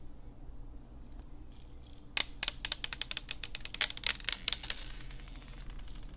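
Slime being pressed and worked by hand, giving a rapid run of sharp crackling clicks that starts about two seconds in and lasts about two and a half seconds, then trails off into a soft hiss.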